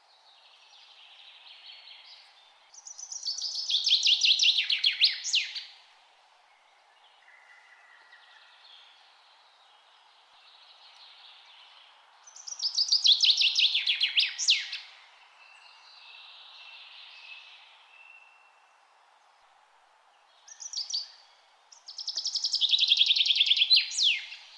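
A songbird singing the same song three times, about nine seconds apart: a fast trill of repeated notes dropping in pitch and ending in a sharp flourish. Fainter bird calls come between the songs over steady background noise.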